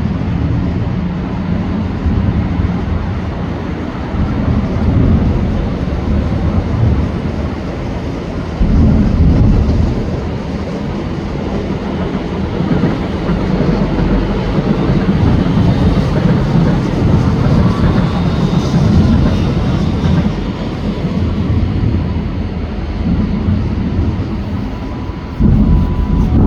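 Fireworks display: many shells bursting in quick succession and merging into a continuous low rumble that swells and falls, with a sudden louder barrage about a third of the way in and another just before the end.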